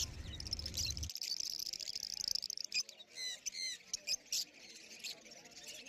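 Caged lovebirds and budgerigars chirping and chattering in a dense, high-pitched stream, with a few sharper, falling calls about three seconds in.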